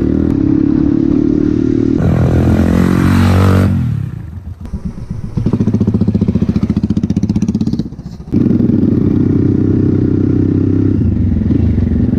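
Motorcycle engine running on the move: it grows louder about two seconds in and falls in pitch as it slows, drops away briefly, then gives an even low thumping before running on steadily after an abrupt break near the eight-second mark.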